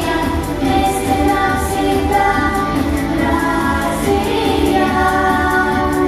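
A song performed on stage: several voices singing over an accompaniment with a steady beat.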